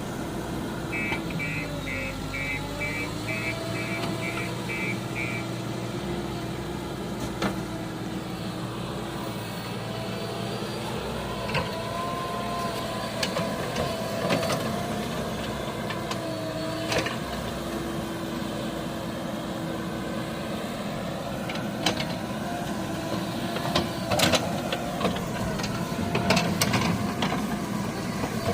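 Heavy vehicle's diesel engine running steadily, its pitch drifting up and down. About a second in there is a quick run of some nine short high beeps lasting about four seconds, and scattered sharp knocks and clatters, more of them near the end.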